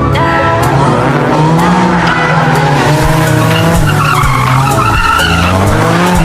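Car engine sound revving up and down with tyres screeching, like a racing-car sound effect.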